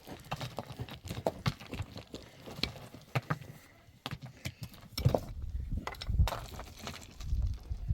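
Irregular clicks and knocks, with heavier low thumps in the second half.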